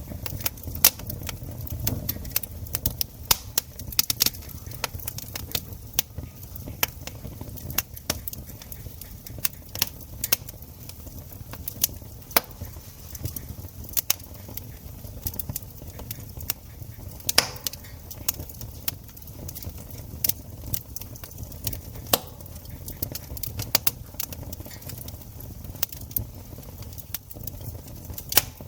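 Wood campfire crackling, with many sharp, irregular pops and snaps over a steady low background.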